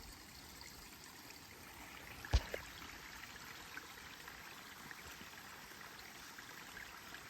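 Waterfall rushing steadily, with a single sharp knock a little over two seconds in.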